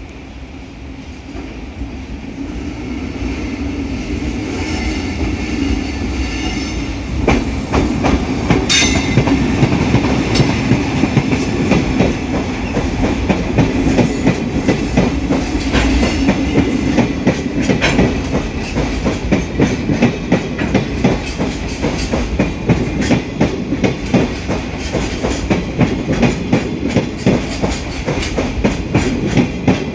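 A train running past, growing louder over the first several seconds, then its wheels clacking rhythmically over the rail joints, with a sharp click about nine seconds in.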